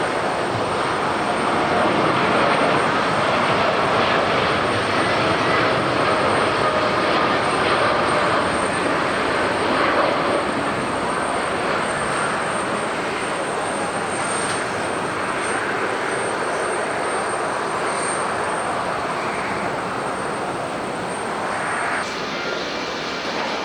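Jet airliner engines running loud and steady, a dense roar with whining tones in it. About 22 seconds in, the sound cuts abruptly to a different, slightly quieter engine whine.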